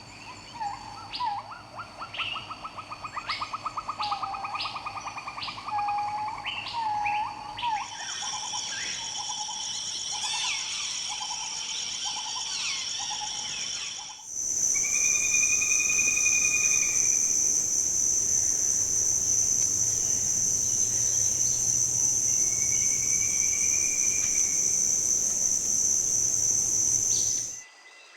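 Rainforest soundscape: assorted bird calls, whistles and a rapid trill, then about halfway a loud steady high-pitched insect drone takes over, with a few bird whistles over it. It cuts off suddenly near the end.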